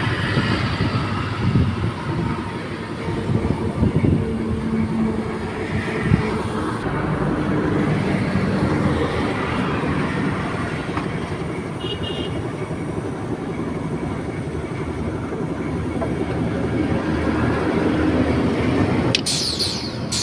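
Steady, loud mechanical rumble of a running vehicle or machine, with a few sharp knocks.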